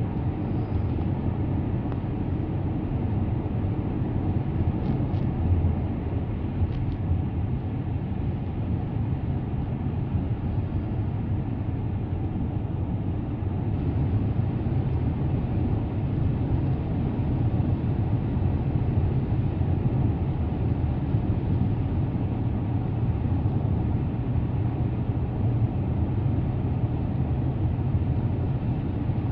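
A car driving along the road: steady tyre and engine noise, mostly a low rumble.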